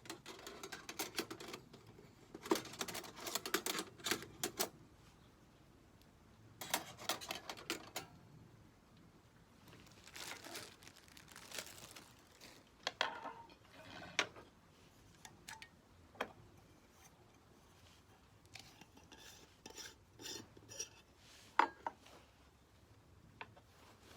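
Metal cookware and small utensils being handled, clinking and rattling in several separate bursts with quieter gaps between them.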